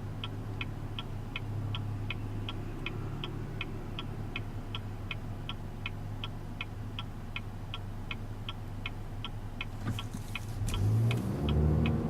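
Turn-signal indicator clicking steadily, about three to four clicks a second, over the low hum of a 2014 Chevy Impala's 2.5-litre four-cylinder engine heard from inside the cabin. Near the end the engine note rises and grows louder as the car picks up speed.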